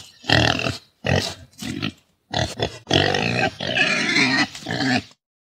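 Domestic pig grunting repeatedly while being hand-fed: a string of short grunts, then a denser run of grunts that stops abruptly about five seconds in.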